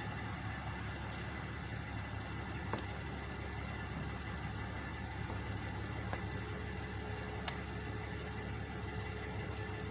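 Truck engines idling steadily in a continuous low rumble, with two sharp ticks and a faint steady tone joining about six seconds in.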